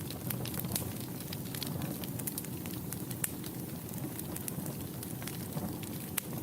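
Wood fire burning in a fireplace: a steady low rumble of the flames with frequent irregular sharp crackles and pops, a few louder pops among them.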